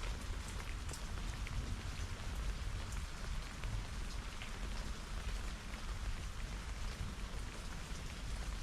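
Steady rain falling during a thunderstorm, with scattered faint drop ticks over a steady low rumble.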